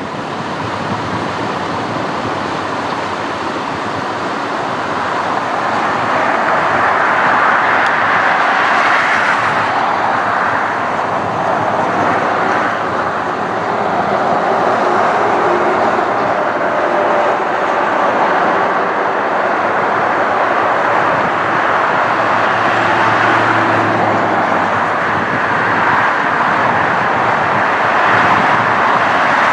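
Jet airliner engines running loud and steady, a broad rushing roar that builds over the first several seconds and then holds.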